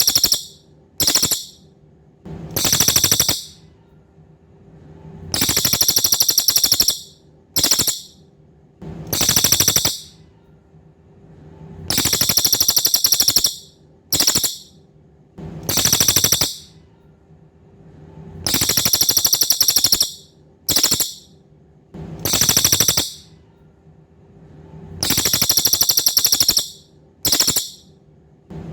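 Cililin songbird singing very high, rapid, buzzy trills. The phrases come in repeating groups of three, a long trill, a short one, then a medium one, with a group about every six to seven seconds. A faint steady low hum runs underneath.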